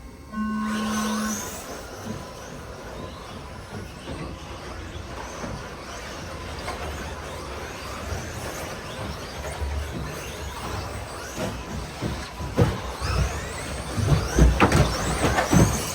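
A start tone lasting about a second, then a pack of radio-controlled stadium trucks racing off, their motors whining up and down in pitch. Sharp knocks and thumps grow more frequent near the end.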